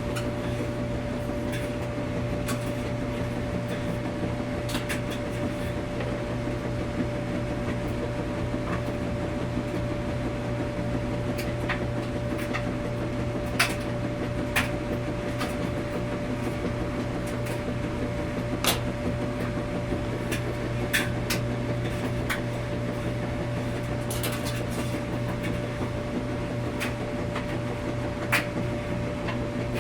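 Washing machine running: a steady low hum with a fainter steady higher tone over it, and light clicks and knocks at irregular moments.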